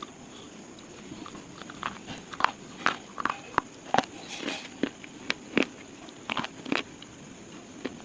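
Brittle slate pieces crunching and snapping in a string of irregular, sharp cracks, some closely spaced, the loudest about two and a half and four seconds in.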